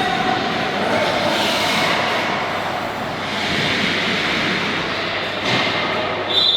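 Steady noise of a youth team game in an indoor rink or gym, with a referee's whistle starting sharply just before the end.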